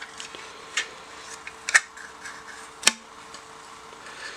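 Plastic model-kit parts and their bags being handled: light rustling and small ticks, with three sharper clicks about a second apart, over a faint steady hum.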